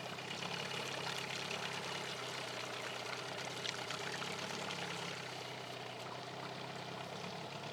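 Small outboard motor running steadily at low trolling speed, with water washing and trickling along the boat's hull.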